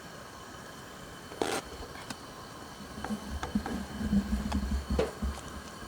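Chopped cabbage being put into a cooking pot with pumpkin: a short scrape about one and a half seconds in, then a few light knocks and clicks.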